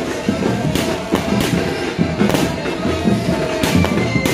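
Aerial fireworks going off in a string of sharp bangs, about eight spread through the few seconds, over music playing in the background.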